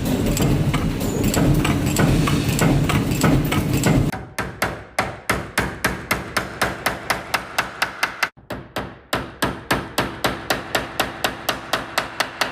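A dense clattering noise, then from about four seconds in a rapid, even series of sharp knocks, about three or four a second, like repeated hammer strikes, with a short break about eight seconds in.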